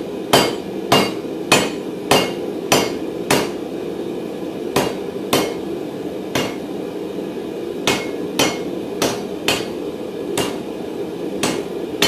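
Hammer blows on a hot round mild steel bar at the anvil, forging a fire poker. About fifteen ringing strikes come a little over half a second apart, in short runs with brief pauses, over a steady background hum.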